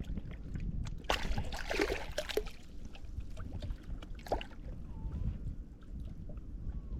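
Wind rumbling on the microphone over surf washing on a sandy beach, with splashy rushes of water about a second in and again briefly around four seconds in.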